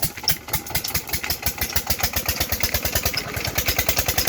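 Petter diesel engine running just after catching, a fast, even chugging of about ten beats a second that grows louder as it settles into its run.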